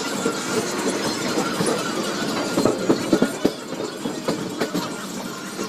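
Train running along the track, heard from on board: a steady rush of running noise with irregular clacks and knocks from the wheels over rail joints and points, several close together about halfway through.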